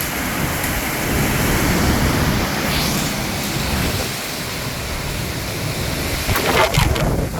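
Strong haboob dust-storm wind blowing and buffeting the microphone as a steady rush, swelling a little about two seconds in, with a few short sharp crackles near the end.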